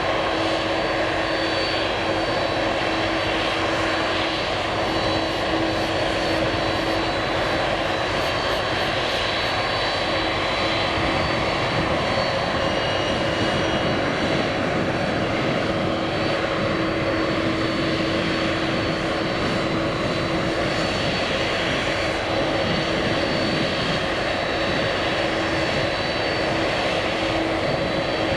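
Jet airliner engines running steadily: a broad, even rush of engine noise with steady whining tones over it, holding the same loudness throughout.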